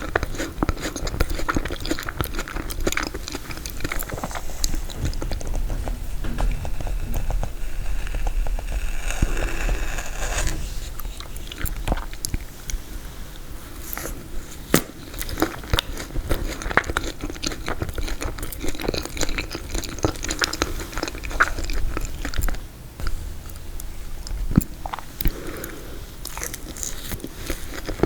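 Close-up eating sounds of a frozen tiramisu: biting, crunching and chewing, with dense crackly clicks of the frozen cake and some wet mouth sounds.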